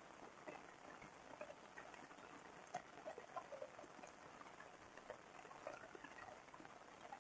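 Faint patter of light rain: a soft hiss with scattered, irregular drop ticks.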